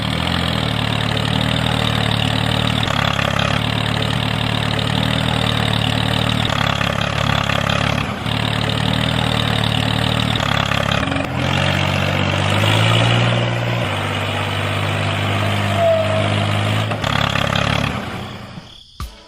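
Small engine of a home-built mini tractor running steadily with a low, even rumble. It changes abruptly several times, with a brief rise in revs around two-thirds of the way in, then fades out near the end.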